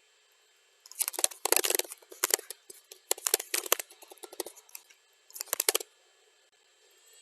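Computer keyboard typing at double speed: rapid runs of key clicks starting about a second in, with a short pause before a final brief run.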